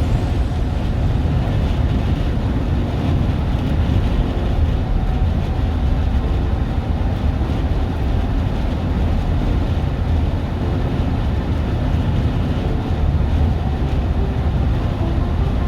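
Steady, loud low rumbling noise with a fainter hiss above it and no clear pitch or rhythm.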